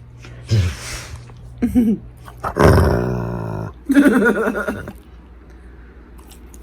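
Several separate growl-like animal vocalizations, the loudest and longest about halfway through.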